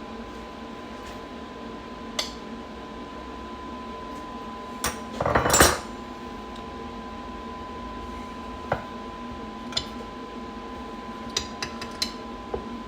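Metal tools and carburettor parts clinking and rattling on a workbench as a 12 mm spanner is used to loosen the choke plunger on a carburettor bank. A louder rattle about five seconds in, then a few scattered light clicks, over a steady hum.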